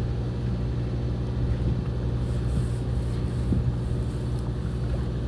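A fishing boat's onboard engine running steadily, a low droning hum.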